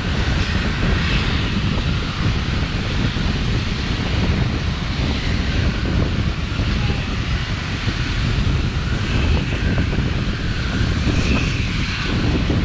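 Steam-hauled passenger train running along the line: a loud, steady low rumble with wind noise, and no distinct exhaust beat.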